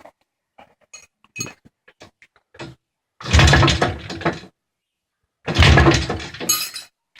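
IZh Planeta 5's single-cylinder two-stroke engine being kick-started: light metallic clicks, then two loud kicks about two seconds apart, each turning the engine over in quick pulses for about a second without it starting.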